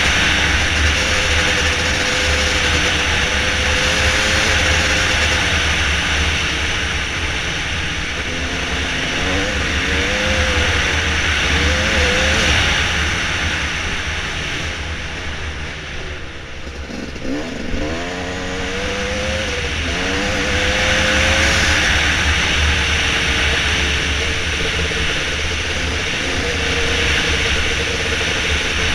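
Dirt bike engine running while riding a trail, its pitch wavering with the throttle, with wind rushing over the microphone. About halfway through the revs drop off and come back in a few quick blips, then it settles to a steady run again.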